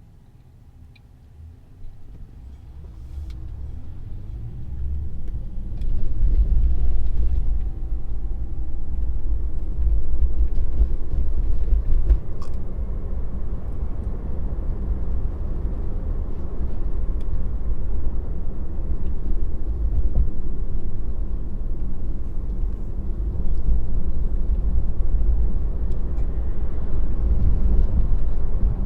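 Tesla's tyre and road rumble heard inside the cabin, swelling over the first few seconds as the car picks up speed and then holding steady, with a faint rising whine early on as it accelerates.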